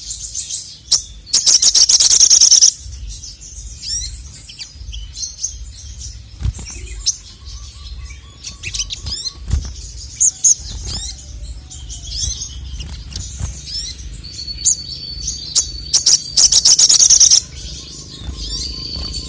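Male sogon (ruby-cheeked sunbird) singing in full song: a stream of sharp high chirps and quick sweeping notes, broken twice, about a second and a half in and near the end, by a loud rapid chattering trill lasting about a second. A low steady rumble runs underneath.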